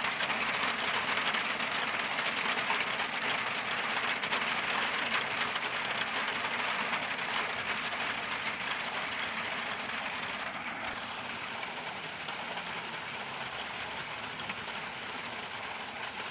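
Steady rain, a dense hiss and patter of drops that slowly fades.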